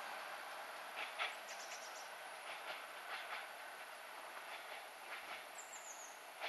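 Irish Rail 22000 class diesel multiple unit pulling away and fading into the distance: the steady noise of its underfloor diesel engines and wheels dies down slowly. Groups of sharp clicks come from the wheels passing over rail joints.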